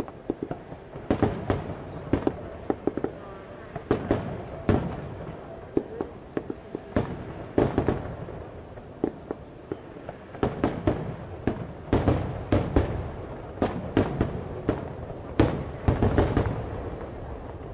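Aerial firework shells bursting: a string of sharp bangs and crackling pops at irregular intervals, several a second at the busiest moments.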